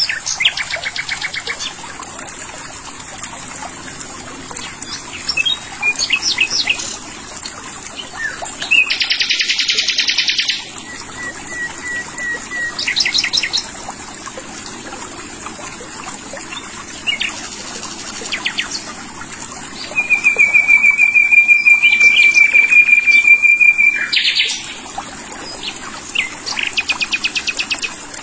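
Songbirds singing: short, fast, high trilled phrases every few seconds, and a long, loud, steady high trill lasting about four seconds near the end, over a faint steady high hiss.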